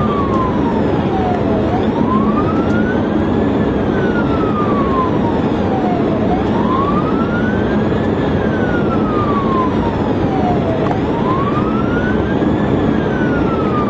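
Police cruiser siren on a slow wail, its pitch rising and falling about every four and a half seconds, over the steady road and engine noise of the pursuing car.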